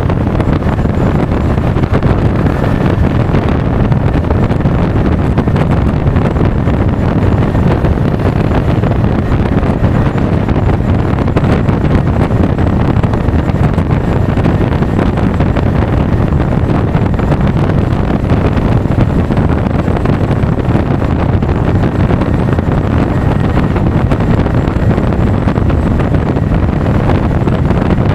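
Wind buffeting an action camera's microphone while riding a Honda Forza 350 scooter at speed: a steady, loud, low rush.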